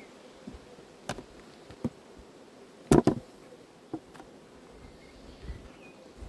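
Honeybees buzzing at an open hive, with several sharp knocks and clicks, the loudest a double knock about three seconds in.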